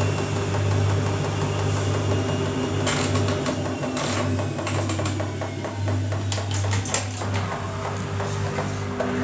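Washing machine running its rinse cycle: a steady motor hum, with the Pringles carton clattering and knocking in the drum from about three seconds in.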